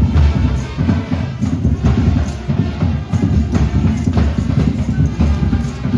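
Cape Minstrel street band playing loud music, led by drums and percussion.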